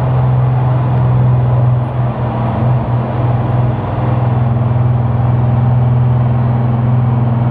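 Engine of a pulling vehicle running loud and steady at a constant high pitch, with a brief wavering about two to three seconds in.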